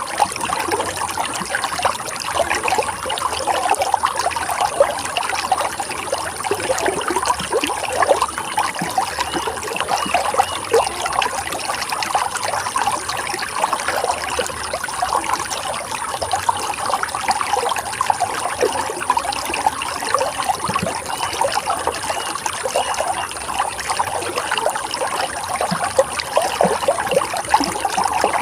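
Running water flowing and trickling steadily, with a constant patter of small splashes.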